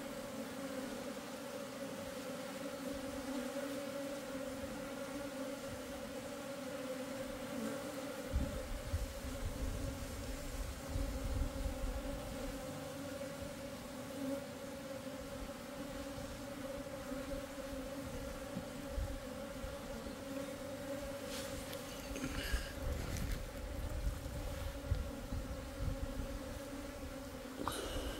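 A large mass of honeybees flying out of the hive, a steady many-voiced hum, as the colony gets ready to swarm. From about a third of the way in, gusts of wind rumble on the microphone.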